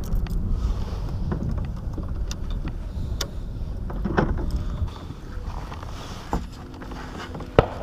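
Wind rumbling on the microphone, with scattered clicks and knocks from handling gear in a kayak and one sharp click near the end. The wind rumble eases after about five seconds.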